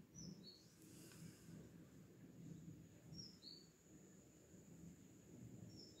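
Faint bird call in the background: a short two-note chirp, high then slightly lower, repeated about every three seconds, with a faint steady high-pitched tone underneath.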